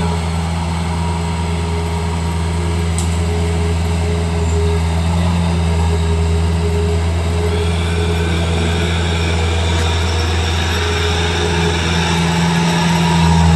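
An engine running steadily at a constant speed, a loud low drone, most likely a skid steer's diesel engine on the land clearing site. There is a faint click about three seconds in and another about ten seconds in.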